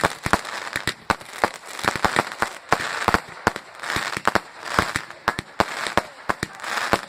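Fireworks going off: a rapid string of sharp cracks and bangs, several a second, with stretches of hissing crackle between them.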